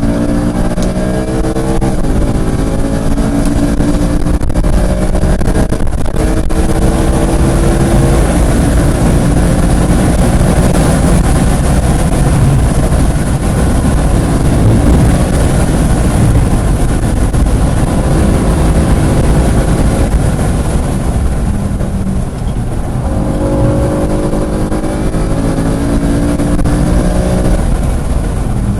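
Car engine pulling hard at lapping pace, its pitch climbing through the revs, over heavy wind and road noise. It briefly falls off a little past two-thirds of the way in, then climbs again toward the end.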